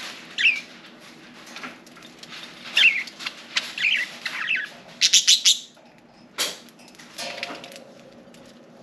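Pet budgerigars chirping: a few short warbled chirps in the first half, then a quick flurry of sharp, scratchy sounds about five seconds in, followed by a couple of single clicks.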